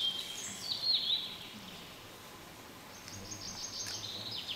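Songbirds singing: a couple of short, high phrases of descending notes in the first second or so, then a fast trill of rapidly repeated notes from about three seconds in.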